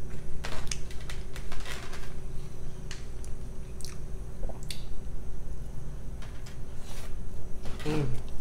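Close-miked biting into and chewing a cheeseburger, with wet squishing mouth sounds and small clicks.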